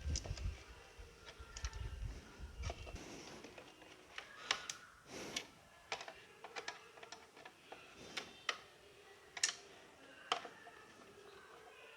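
Irregular light clicks and taps of plastic and metal parts being handled while a mixer grinder is reassembled, with a low rumble in the first few seconds.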